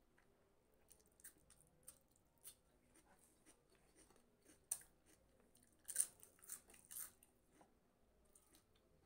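Close-up eating sounds: a person chewing crunchy food, a string of sharp crunching clicks that is loudest about five to seven seconds in.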